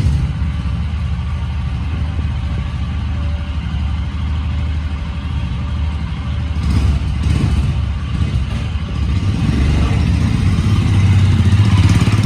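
Royal Enfield motorcycle engine idling steadily just after being started, with a couple of brief louder moments about seven seconds in and a rise in level near the end.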